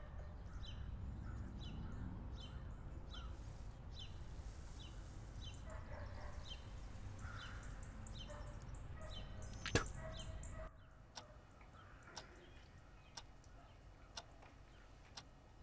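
Quiet outdoor ambience: a bird chirping a short call about twice a second over a low rumble, with one sharp click just before ten seconds in. The sound then drops to a quieter room tone with a few faint ticks.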